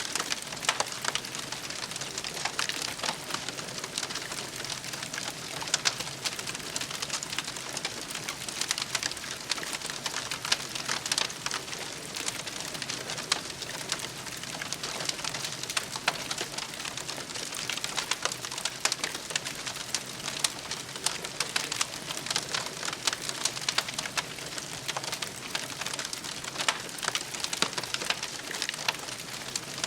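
Campfire crackling steadily, with many sharp pops and snaps from the burning wood over a soft hiss.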